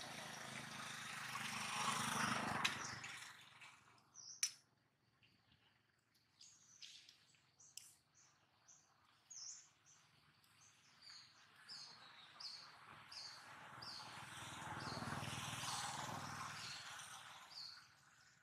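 A small bird chirping over and over, short high chirps about two a second from about six seconds in. Under it, two slow swells of rushing background noise, at the start and again near the end, and a single sharp click about four and a half seconds in.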